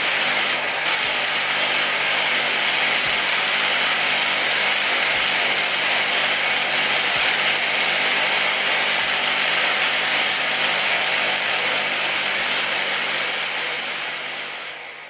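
Harsh noise wall of electronic power-electronics noise: a dense, distorted static hiss over a steady low drone, with a faint low pulse about every two seconds. The highs drop out briefly just under a second in, and the whole wall fades out near the end as the track closes.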